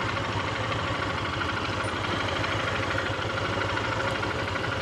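Single-cylinder engine of a Honda XR150 motorcycle idling steadily, with an even, rapid low pulse.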